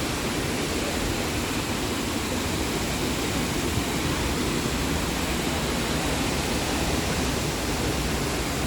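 Steady rush of Looking Glass Falls, a waterfall pouring into its plunge pool, an even noise that holds unchanged.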